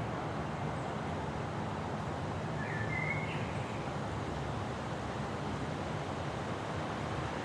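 Steady thunderstorm ambience of wind and low rumble, with no thunderclap. A single short bird call rises and then holds briefly about three seconds in.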